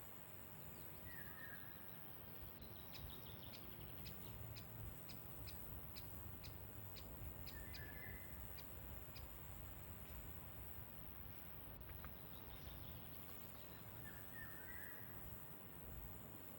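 Faint birds calling in the evening countryside: a short chirping phrase comes three times, about every seven seconds. Between the first two, a run of sharp high ticking calls comes about two a second.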